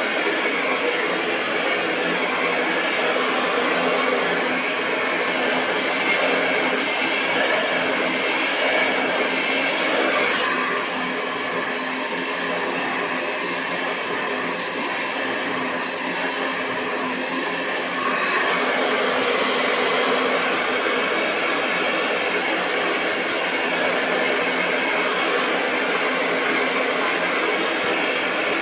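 Hair dryer running continuously, a steady rush of blown air with a motor hum beneath it. It turns slightly quieter and duller from about ten to eighteen seconds in, then returns to its fuller sound.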